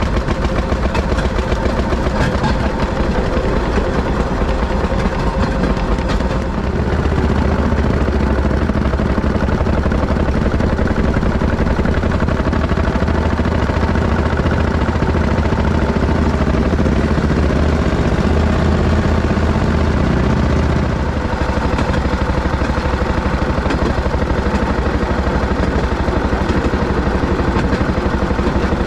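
M19 railroad speeder (motorcar) running along the track, its engine making a steady drone. The low rumble grows heavier about seven seconds in and eases back around twenty-one seconds.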